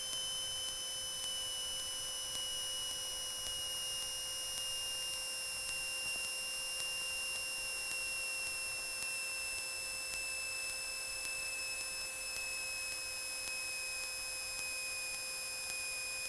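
Steady electrical hum and whine on a Cessna 172's intercom audio, with a high whine that slowly drifts down in pitch.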